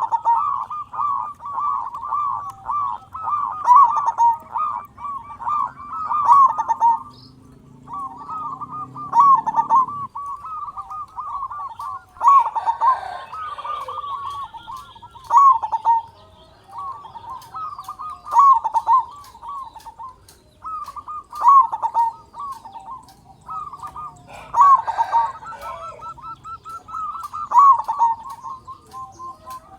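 Zebra dove (perkutut) cooing in repeated rolling phrases, a bout every few seconds with short pauses between. This is the big-voiced, persistent song of a male perkutut in full voice.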